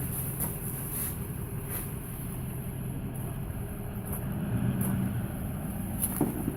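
Vehicle running with a steady low rumble, with a few faint knocks: a truck being towed.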